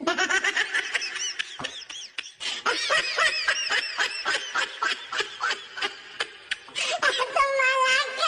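High-pitched laughing in a fast run of short bursts, with a longer drawn-out squeal near the end.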